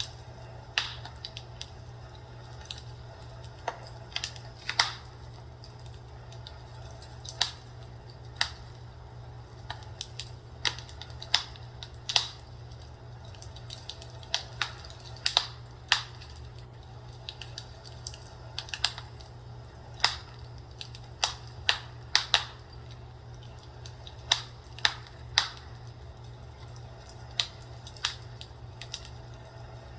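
Fireplace crackling: irregular sharp pops and snaps, about one or two a second, over a steady low hum.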